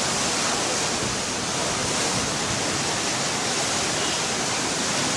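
Fast-flowing floodwater rushing in a steady noise, with no breaks or distinct events.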